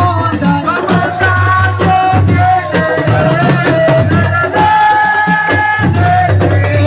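Live assiko band music: a sliding melody line, likely a voice, over steady bass and dense drumming and percussion.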